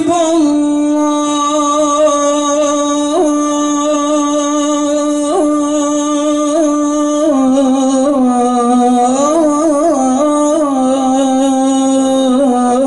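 A solo voice chanting a sala, the Islamic call recited for the dead. It holds one long note for about seven seconds, then drops a little lower and runs through ornamented melismatic turns.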